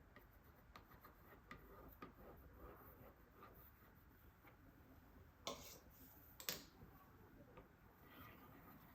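Quiet, close handling of cake-decorating tools: faint scattered taps and clicks, with two short, louder rustling sounds about five and a half and six and a half seconds in.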